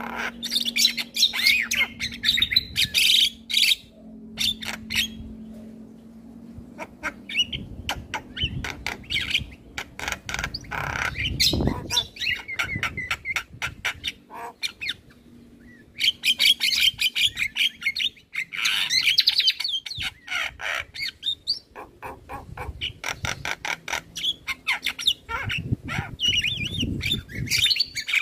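Male Javan myna singing a long, varied song of harsh squawks, rapid clicking chatter and whistled notes, with a short lull midway.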